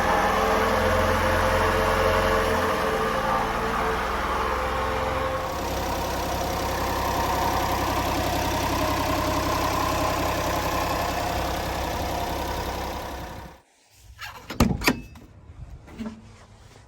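1997 Honda Acty mini truck's small three-cylinder engine running steadily. It stops abruptly about three-quarters of the way through, followed by a few sharp knocks.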